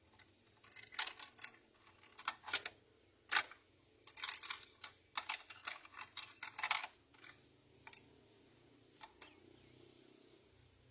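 Hand tools and metal engine parts clicking and clinking in quick clusters as work goes on to pull an engine's cylinder head, then a few single clicks near the end.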